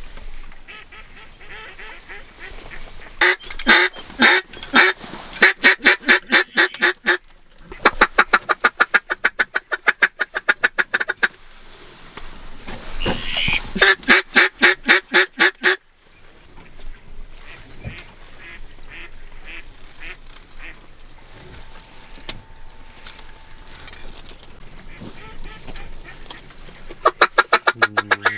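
Mallard duck call blown in long, fast runs of quacks, about seven or eight a second, in four loud series with pauses between.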